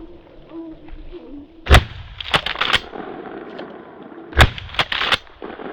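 Two loud gunshots about two and a half seconds apart, each followed by a few fainter, sharper cracks.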